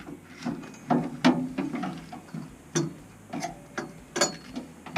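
Irregular clicks and knocks of metal parts and fittings being handled and pushed into place inside a combi boiler during a pump replacement.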